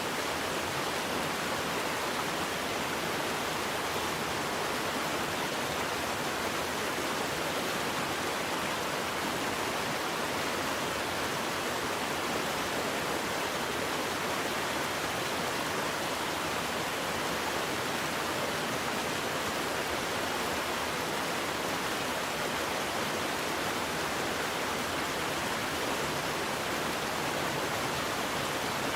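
Waterfall with water pouring steadily, an even rushing sound without any change.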